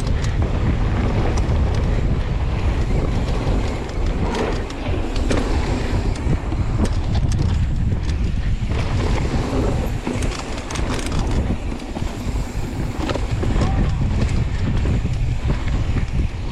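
Wind rumbling over the microphone as a downhill mountain bike descends at speed, with the bike's tyres and frame rattling over the rough trail in many short clicks and knocks.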